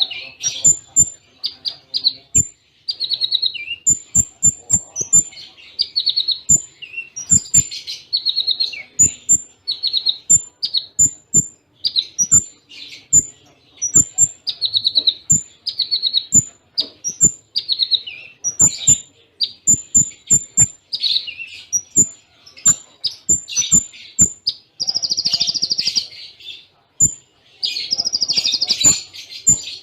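Konin (kolibri ninja) sunbird singing a continuous run of short, high chirping phrases in close succession: the 'cililin' bursts. Thin high ticks and sharp clicks fall between the phrases.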